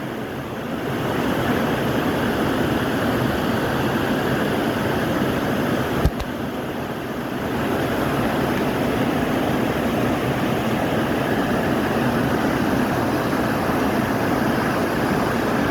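Steady rushing of stream water and waterfalls, with a single knock about six seconds in.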